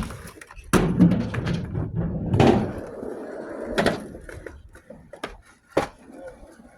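Skateboards on concrete: wheels rolling with a low rumble and about five sharp board clacks and slaps, the rumble dying away about halfway through.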